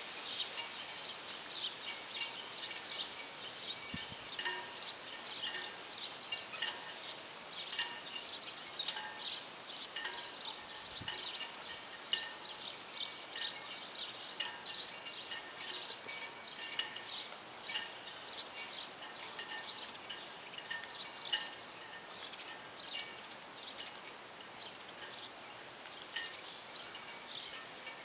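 Birds chirping: short, high calls repeated several times a second over a light outdoor noise bed, thinning a little near the end.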